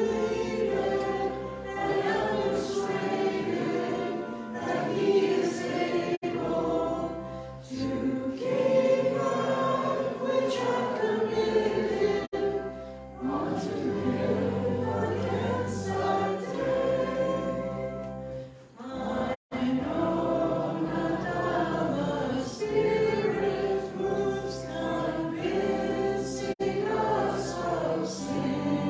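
Many voices singing together as a choir, in sustained phrases with brief pauses between lines.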